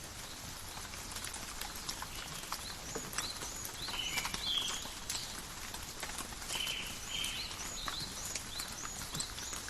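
Gentle rain pattering in a forest, with scattered drips and drops. Over it, small birds call in short, high, repeated chirps.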